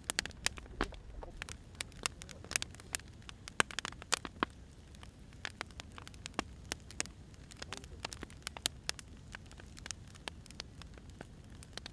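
Wood fire crackling: irregular sharp pops and snaps from burning firewood over a low steady rumble.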